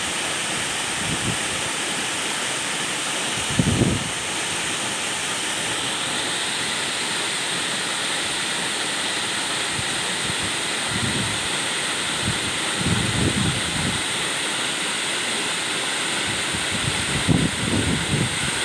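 Waterfall rushing with a steady, full roar of falling water. A few brief low bumps of wind on the microphone come through, near four seconds in and again towards the end.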